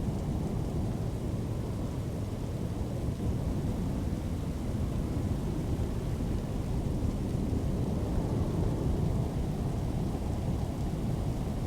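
Steady low rumbling storm noise, wind and rain, with no breaks or separate events.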